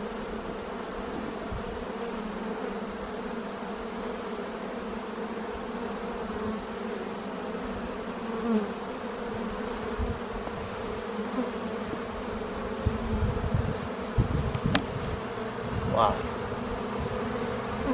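Honeybee colony buzzing steadily around an opened hive, a continuous hum, with some low bumps and rumble a few seconds before the end.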